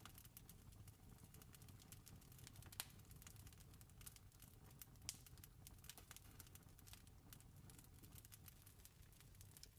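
Campfire crackling faintly, with many small irregular pops over a low steady rumble. Two louder pops come about three and five seconds in.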